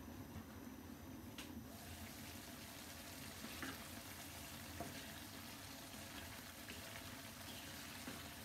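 Turnip and potato cubes sizzling faintly in a non-stick frying pan; the glass lid comes off about a second and a half in, after which the sizzle is clearer. They are then stirred with a wooden spatula, with a few light scrapes and taps against the pan.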